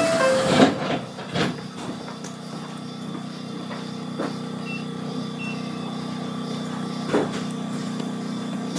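Inside an Ueda Electric Railway electric train: a steady low hum of the train's equipment, broken by a few sharp clicks and knocks.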